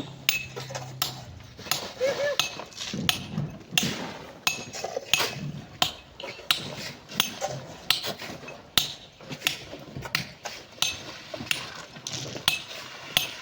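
Metal digging tools striking hard-packed sand and rock over and over, a sharp clinking blow roughly every half second to second at an uneven pace.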